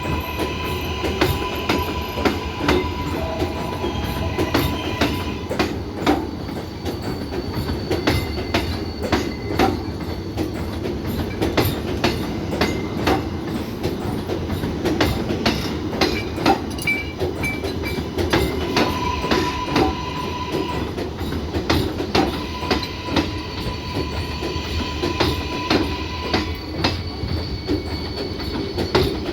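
R188 subway train running on the 7 line: a steady rumble with wheels clicking over rail joints again and again, and a faint high steady tone at times.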